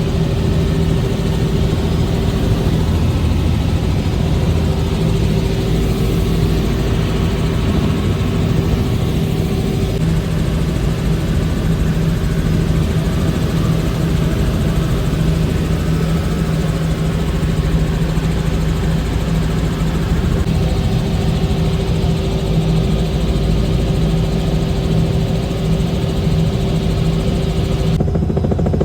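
Helicopter running steadily: a continuous loud engine and rotor drone with a constant low hum that holds its pitch.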